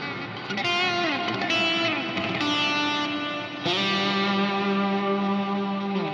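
Electric guitar played through an EarthQuaker Devices Avalanche Run stereo delay and reverb pedal: a few bent, sliding notes, then a note held from a little past halfway that bends down at the end, all washed in delay and reverb.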